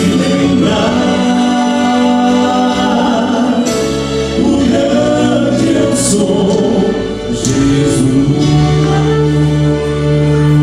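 Vocal quartet singing a gospel song in held, sustained harmony over a steady low bass accompaniment.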